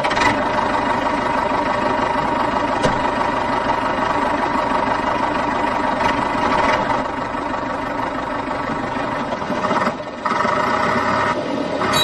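A motor running steadily, with a brief drop about ten seconds in before it picks up again.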